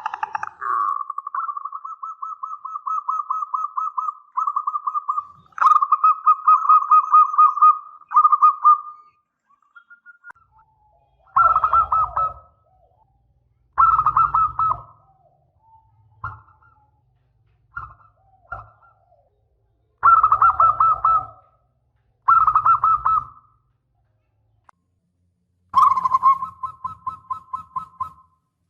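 Zebra dove (perkutut) cooing: a long run of quick rattling coo notes for about the first nine seconds, then shorter cooing phrases every couple of seconds.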